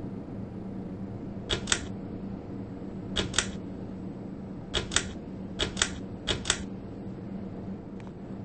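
Switch on a Six's Fan Co. Endeavor ceiling fan clicked five times, each a quick double click, over a steady low hum.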